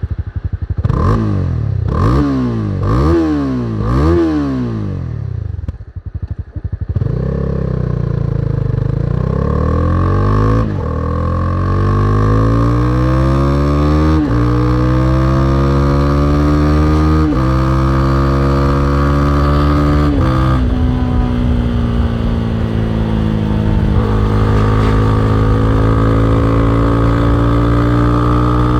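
Honda CB300R's single-cylinder engine revved four quick times in the first few seconds. After a brief lull it pulls away, climbing in pitch through four upshifts, then runs steadily at cruising speed.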